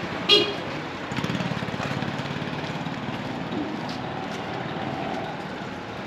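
A vehicle horn gives one short toot. Engine running under steady road noise, with a quick low pulsing between about one and two and a half seconds in.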